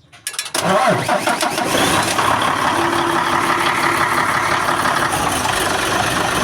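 Isuzu Giga truck's diesel engine cranked by the starter and catching about half a second in, then running steadily. This is a start attempt on a hard-starting engine fitted with a pump control valve (PCV) taken from a Hino.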